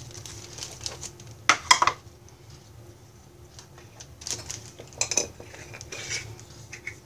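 Measuring spoons clinking and clattering in a few short bursts while spices are measured out.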